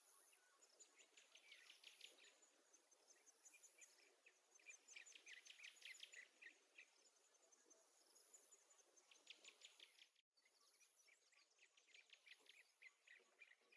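Faint bird calls: rapid trills of short, high chirps coming in several separate bursts of one to two seconds each.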